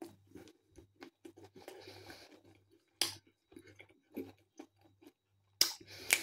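A person chewing a bite of pepperoni pizza topped with jalapeño slices: soft wet mouth clicks and smacks, with a few sharper clicks about three seconds in and near the end.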